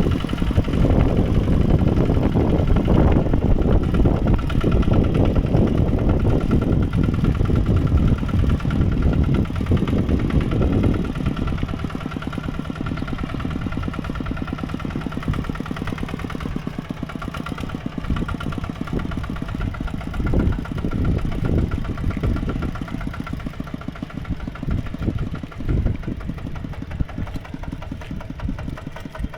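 Mini tractor engine running, louder and heavier for about the first ten seconds, then dropping to a quieter, even running with a few short knocks near the end.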